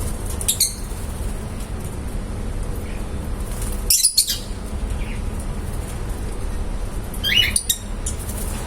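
Lovebirds giving short, high chirps and squawks in three brief bursts: about half a second in, around four seconds in, and near the end, over a steady low hum.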